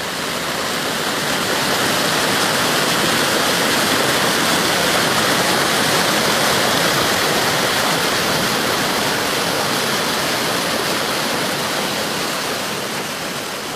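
Rushing water: a steady, even rush that swells up over the first couple of seconds and eases off near the end.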